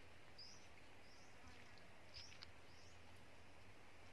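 Near-silent lakeside ambience with a small bird giving short high chirps, repeated every half second or so.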